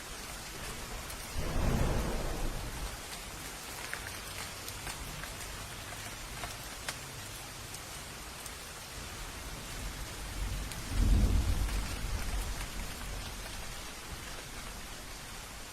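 Steady rain with two rolls of thunder, a shorter one about a second and a half in and a louder one about eleven seconds in that rumbles off over a couple of seconds.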